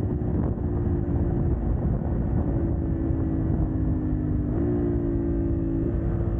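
CF Moto 800NK's parallel-twin engine, catalytic converter removed, running under way on the road. Its pitch sags slowly, then steps up sharply about three-quarters of the way through, over a low rumble.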